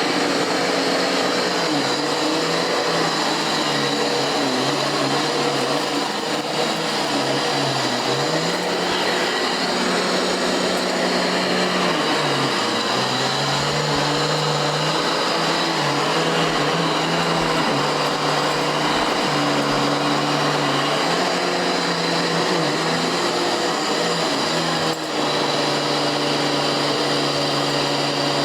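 Vacuum cleaner running steadily, its low motor hum shifting up and down in pitch now and then.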